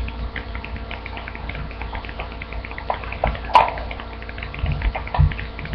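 A sheet of paper being folded and creased by hand: a scatter of small crinkles and taps, with one sharper crackle about three and a half seconds in, over a low steady hum.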